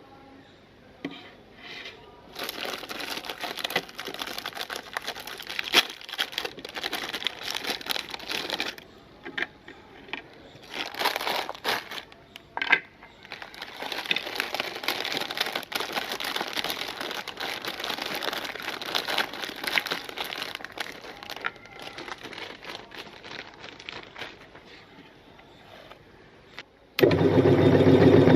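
Irregular crinkling and crackling with many sharp clicks, in uneven spells with short pauses. Near the end an electric meat grinder's motor switches on and runs with a steady, much louder hum.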